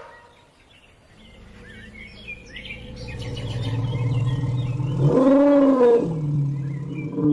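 Elephant calling: a low rumble builds over a few seconds, then breaks into a loud rising-and-falling roar about five seconds in, with a short second call at the end. Birds chirp faintly behind it.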